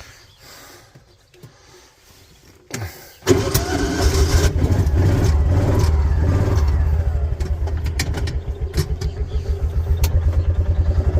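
A vehicle engine starts about three seconds in, just after a short click. It catches at once, rises briefly, then settles into a steady, evenly pulsing idle.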